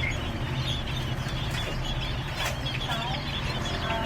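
Cage birds chirping in short, high calls over a steady low hum, with a pair of swooping calls about three seconds in.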